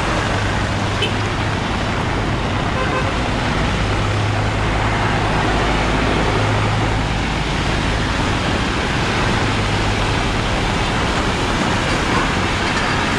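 Steady rain falling, with the low hum of motor traffic running nearby that rises and fades every couple of seconds.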